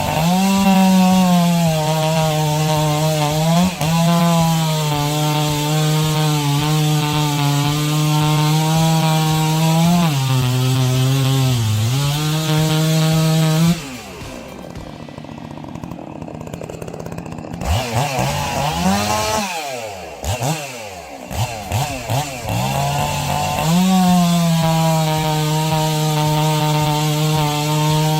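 Husqvarna 3120 XP chainsaw's large two-stroke engine running at full throttle while cutting, its pitch sagging briefly a few times as the chain loads in the wood. About halfway through it drops back quieter for a few seconds and is revved up and down, then runs steadily at full throttle again near the end.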